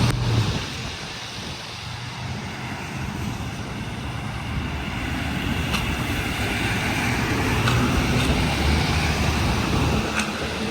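Engine and tyre noise of utility trucks in a convoy driving past. One vehicle fades away about a second in, then the noise builds slowly as the next approaches.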